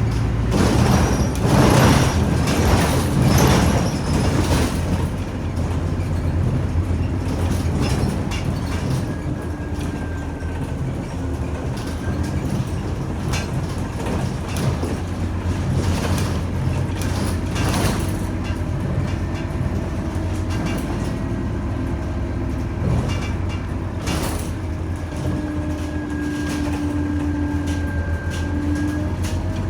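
Inside a Scania Omnicity city bus on the move: a steady low engine and road drone, with short rattles and clicks from the cabin. A thin whine runs through it and grows stronger near the end.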